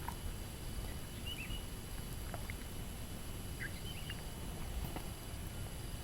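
Outdoor ambience: a steady low rumble with two short, high chirps, one about a second in and one about four seconds in, and a few faint clicks.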